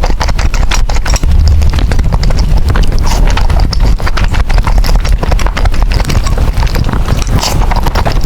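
Close-miked eating of noodles: a continuous, loud run of chewing and slurping mouth clicks and smacks.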